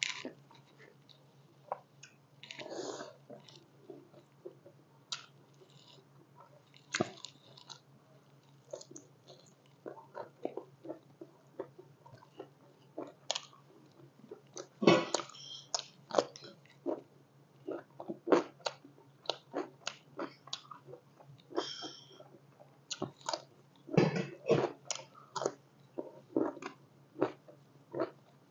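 Close-up mouth sounds of a person eating rice and spicy pork curry by hand: chewing and wet smacks, in short irregular clicks, over a steady low hum.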